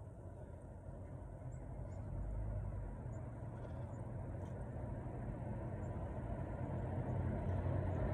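Steady low rumble, slowly growing louder, with faint short high chirps now and then.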